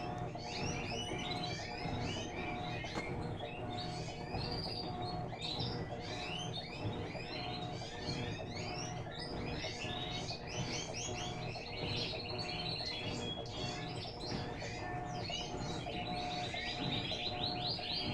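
Many small birds chirping and twittering at once, with a rapid trill a few times, over a steady low hum.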